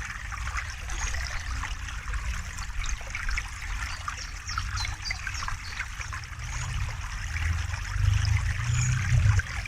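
A river flowing and trickling over stones, a steady wash of splashing water. A low rumble under it swells about eight seconds in and drops away suddenly near the end.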